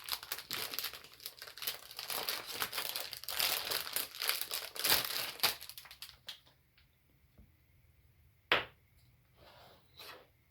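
Packaging being crinkled and torn open by hand for about five seconds, then a couple of sharp clicks near the end.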